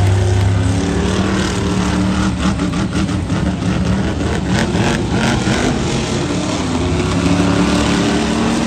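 Monster truck engine running hard and revving, its pitch rising and falling, with a rapid series of sharp knocks or clatters from about a second and a half to five and a half seconds in.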